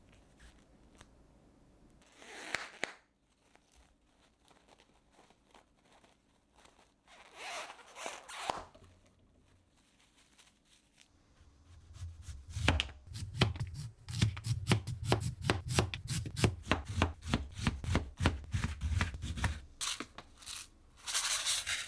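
Kitchen knife chopping rapidly on a cutting board, a quick even run of strokes with dull thuds for about eight seconds in the second half. Short rustling swishes come before it and again near the end.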